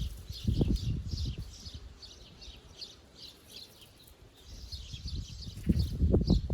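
Small birds singing: a quick run of short, repeated chirping notes, several a second, with a brief pause in the middle. Bursts of low rumble come about half a second in and again near the end, louder than the birdsong.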